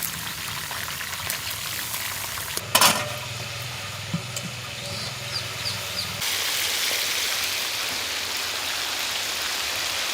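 Chicken legs frying in hot oil in a large pan, a steady sizzle. A sharp metal clank about 3 seconds in, and the sizzle grows louder and denser about 6 seconds in.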